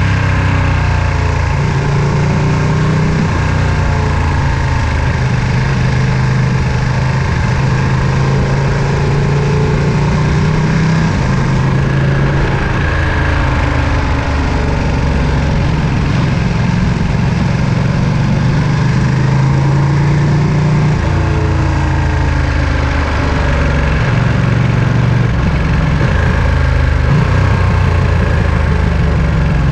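Ducati Panigale V2's 955 cc L-twin engine running at low to moderate revs under way, its pitch stepping up and down several times as the throttle changes.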